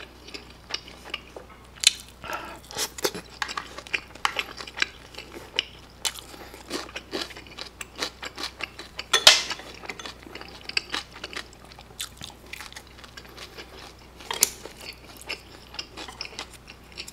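A person chewing mouthfuls of sweet-and-sour fried pork in kimchi sauce with melted cheese: irregular wet chewing and smacking, with a few sharper clicks now and then.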